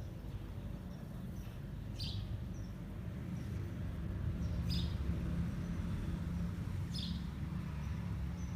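Steady low whir of a small electric winch motor on an RC truck, pulling a stuck RC pickup. A bird gives three short high chirps, about two and a half seconds apart.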